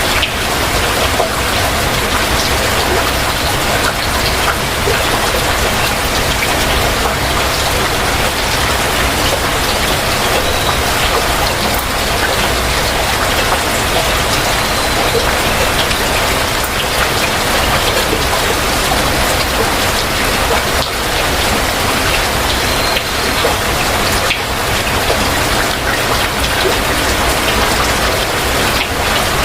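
Heavy rain falling steadily, an even wash of dense raindrops.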